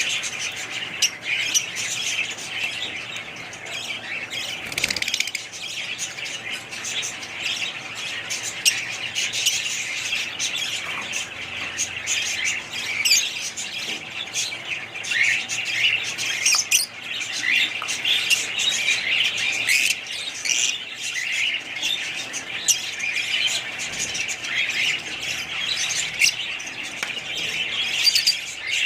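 Many small birds chirping and squawking at once: a dense, continuous chatter of short, overlapping high calls.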